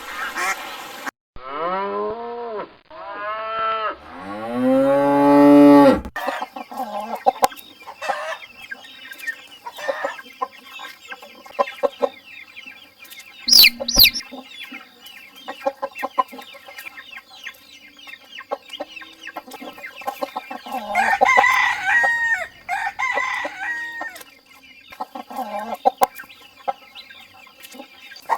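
A rooster crowing once, its call rising in arching syllables to a long held final note. Then a flock of chickens clucking steadily, with two sharp squawks near the middle and a burst of louder cackling about three-quarters of the way through.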